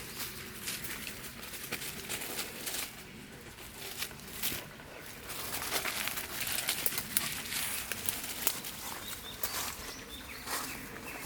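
Irregular rustling and crackling of footsteps and movement through leaf litter on a wet forest path, with a few faint bird chirps near the end.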